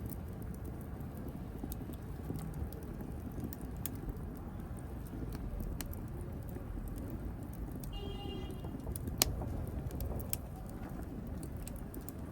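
Wood fire burning in a fireplace: a steady low rumble of flames with scattered sharp crackles and snaps, a brief high-pitched hiss about eight seconds in, and one loud pop just after.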